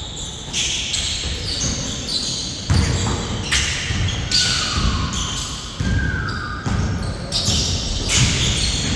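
Basketball bouncing and players moving on an indoor court during a game, with repeated thuds and short high-pitched squeaks echoing in a large hall.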